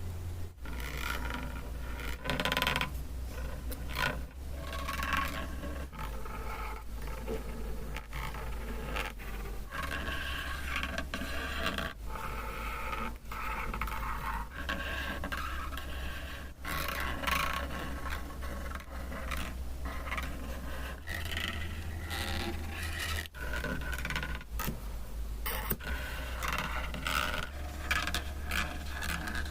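Paper being handled close to the microphone: continuous rubbing and scraping with sharp crinkles and taps every few seconds. A low steady hum underneath shifts pitch every few seconds.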